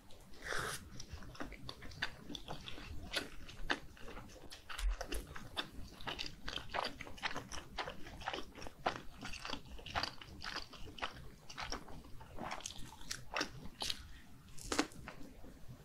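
Close-miked chewing of spicy red fish cake and mini gimbap: a steady run of wet clicks and smacks from the mouth, with one louder click near the end as a mini gimbap goes in.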